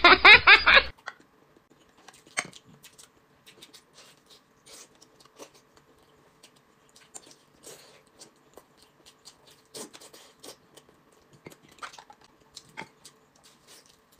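Eating sounds: a person biting and chewing chicken drumsticks, heard as scattered soft wet smacks and clicks.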